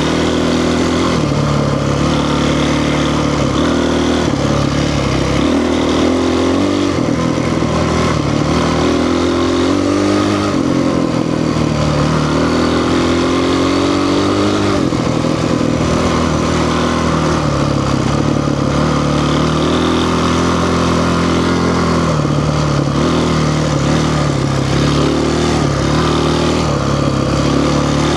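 Honda CRF450 dirt bike's single-cylinder four-stroke engine running hard, revving up and dropping back again and again as the throttle is worked and gears change.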